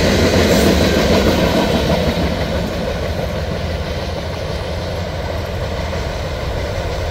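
Freight train tank cars rolling past: a steady rumble and rattle of steel wheels on the rails, easing off from about two seconds in as the last cars move away.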